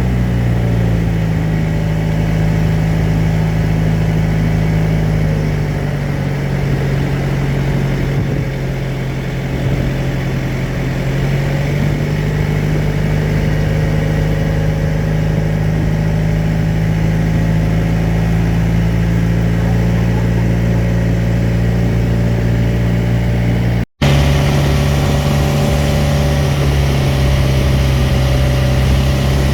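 Small tour boat's engine running steadily with a low, even note; about six seconds in its speed sags for a few seconds, then picks back up. The sound drops out for an instant near the end, then runs on unchanged.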